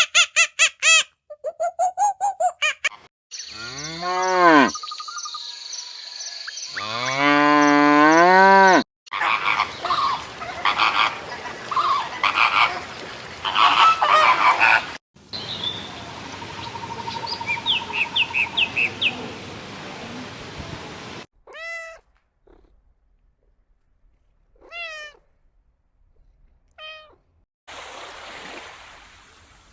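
A series of different animal calls cut one after another: quick repeated calls, two long drawn-out calls, busy stretches with several animals calling, then three short separate calls.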